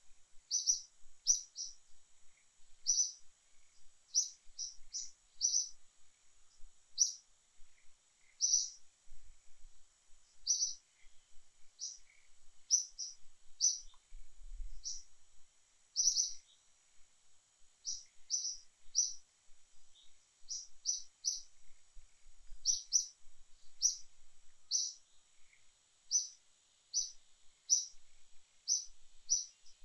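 A small bird chirping over and over: short, high chirps, about one or two a second and sometimes in quick pairs, over a faint steady high hiss.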